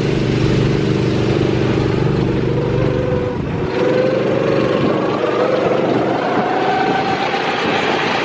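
Go-kart engines running steadily, then from about three and a half seconds in rising in pitch as the karts accelerate away.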